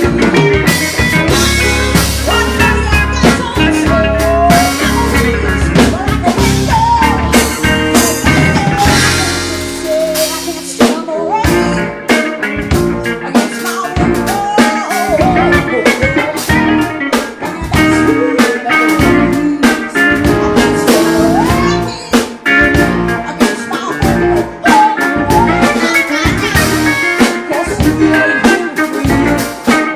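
A blues band playing live, with guitar and a drum kit driving a steady beat. The drums drop back briefly about ten seconds in.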